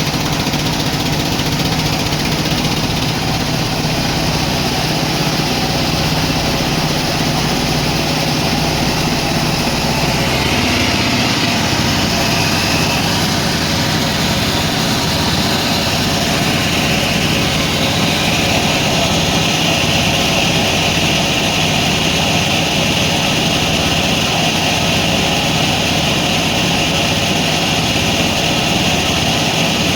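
Sawmill machinery running steadily with a loud, even engine drone. A higher hiss joins about a third of the way in and grows stronger a little after the middle.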